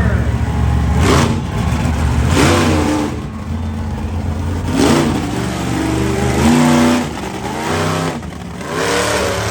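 Monster truck engine revving hard in about five surges that rise and fall, a second or two apart. The commentators think it sounds like a fuel problem, the mixture perhaps leaned out too far.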